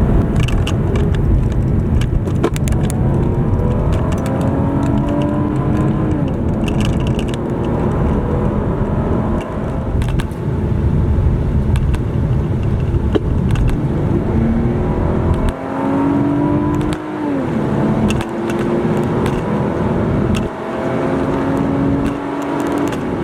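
Toyota 2JZ-GE 3.0-litre straight-six pulling under acceleration, its pitch climbing and then dropping sharply at each automatic upshift, over heavy road and wind noise.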